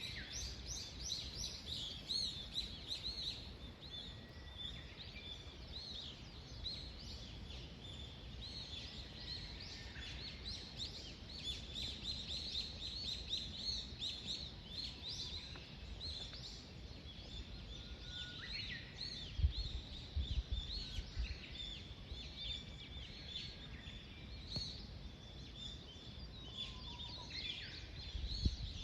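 Dawn chorus of small songbirds: many quick chirps and short trills overlapping without a break, over a low background rumble. Short bursts of stronger low rumble come about two-thirds through and again at the end.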